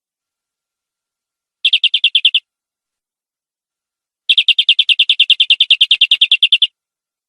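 Canary singing two rapid trills of one repeated note, about eleven notes a second: a short trill, then about two seconds later a longer one lasting over two seconds.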